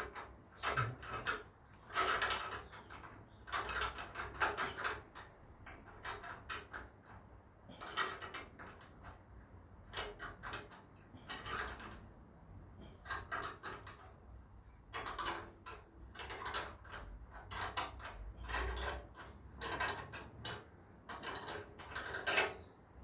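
Hand ratchet clicking in short irregular bursts with brief pauses, undoing a nut on a motorcycle exhaust.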